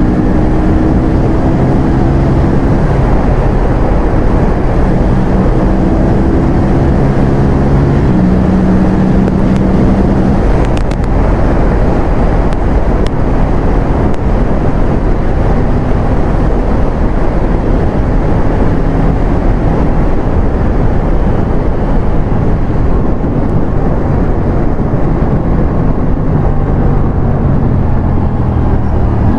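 Aprilia RS457 parallel-twin engine riding along at steady revs, its pitch stepping about eight seconds in. The engine tone blurs into a noisier rush through the middle and rises again near the end.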